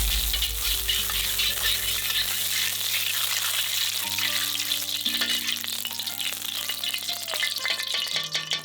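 Food frying in a hot pan: a steady sizzle with dense crackling throughout.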